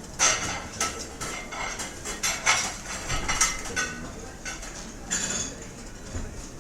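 Dishes and cutlery clattering and clinking in a rapid, uneven run of sharp knocks with short rings, over the steady background hubbub of a restaurant; the clatter thins out after about five seconds.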